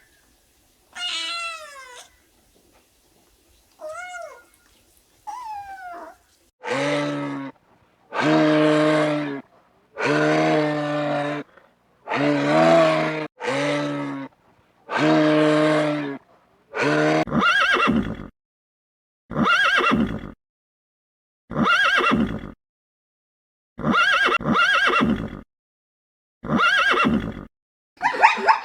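A series of separate animal calls with silent gaps between them. It opens with three short calls that fall in pitch, then six loud, steady, low-pitched calls of about a second each, then about six shorter calls roughly every two seconds.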